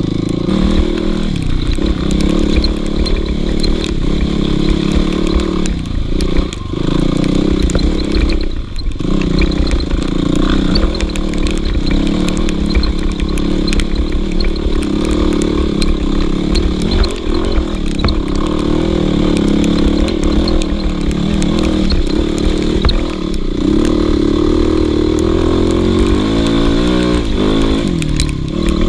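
Dirt bike engine running loud and continuous as the bike is ridden, its revs rising and falling with the throttle, with a run of quick blips of revving near the end.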